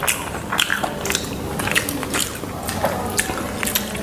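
Close-miked chewing and biting of fried chicken lollipops with chutney: a string of short, irregular wet mouth clicks and smacks.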